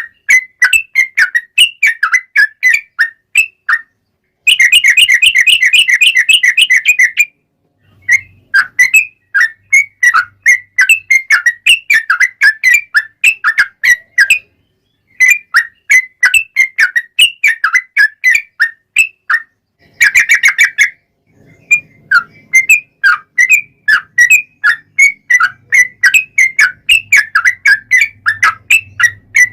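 Trucuk (yellow-vented bulbul) singing in loud repeated phrases of short chirpy notes. Twice there is a fast continuous rattling run, one about five seconds in lasting nearly three seconds and a shorter one about twenty seconds in.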